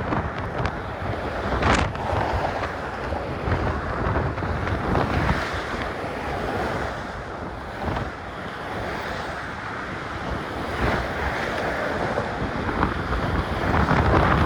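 Wind buffeting a cell phone's microphone that is half covered by a sock, a rumbling noise that gusts up and down and is loudest near the end.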